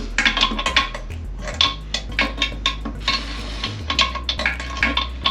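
Irregular metallic clicks and clinks as the toilet tank bolts are tightened down, the nuts squeezing the washers against the porcelain.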